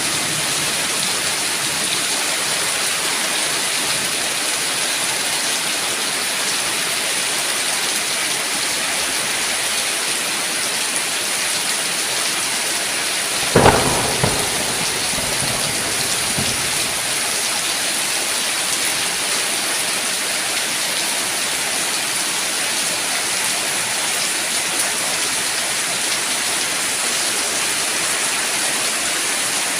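Steady heavy rain falling, with one sudden clap of thunder about halfway through that rumbles away over a couple of seconds.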